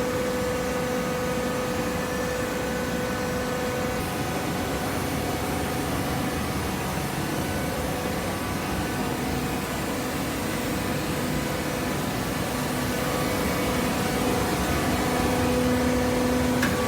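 Hydraulic paper baler running: a steady mechanical hum from its motor and hydraulic pump over a constant hiss, getting a little louder near the end.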